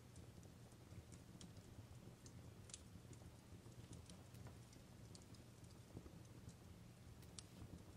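Faint fireplace crackling: sparse, irregular sharp pops over a low steady rumble, with two louder pops, one about a third of the way in and one near the end.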